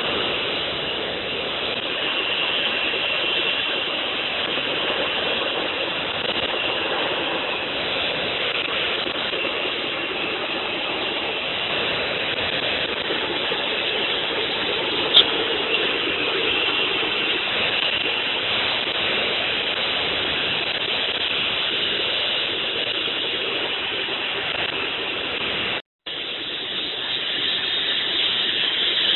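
Forced-air metal-melting furnace running: a steady rushing blast, with a brief break about 26 seconds in.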